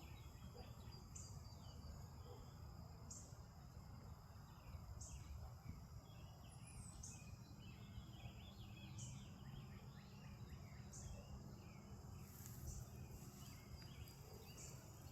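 Faint garden birdsong: birds twittering in scattered short phrases, with a short high sound repeating about every two seconds, over a low steady rumble.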